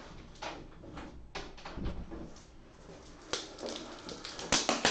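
Scattered taps and rustles of objects being handled on a tabletop, a few short knocks at uneven intervals with the loudest cluster near the end.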